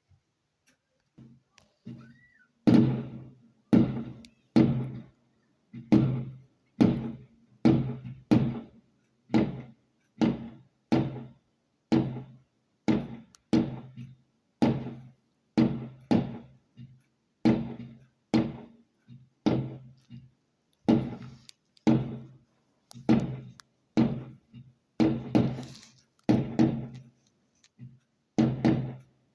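A steady run of hollow knocks, a little more than one a second, each with a low ringing pitch that dies away quickly.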